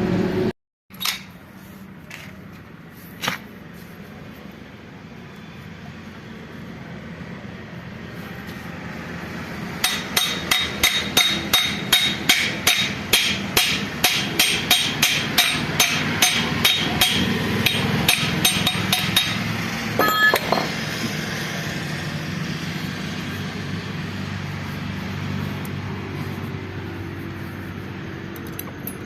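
A hammer striking metal: a few scattered knocks, then a fast, even run of about thirty ringing blows at roughly three a second, starting about ten seconds in and ending with a last couple of strikes.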